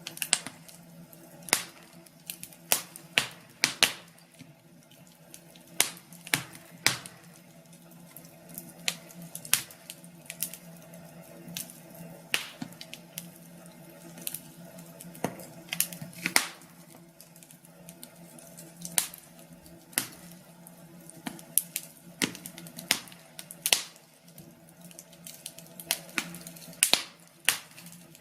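Wood fire crackling, with irregular sharp pops and snaps every second or so, some in quick clusters, over a faint steady hum.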